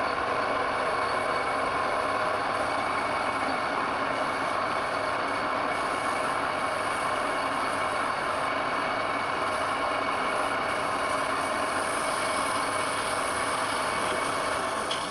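Power tool running steadily: a constant whine over a rushing noise, easing off near the end.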